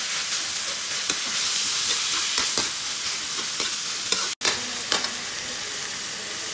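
Ground pork sizzling in hot oil in a metal wok while a metal spoon stirs it, with frequent scrapes and clinks of the spoon against the pan. The sound cuts out for an instant a little past halfway.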